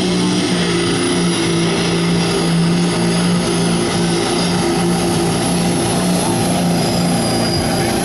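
Diesel pickup truck engine held at full throttle under heavy load pulling the sled, at a steady high pitch with a thin high whistle over it.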